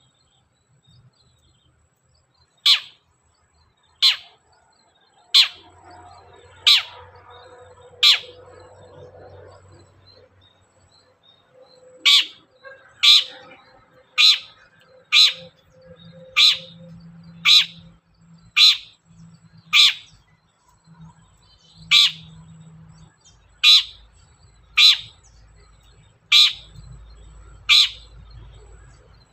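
Long-tailed shrike (cendet) giving a run of short, sharp calls, repeated roughly once a second with a few longer pauses, over a faint low background hum.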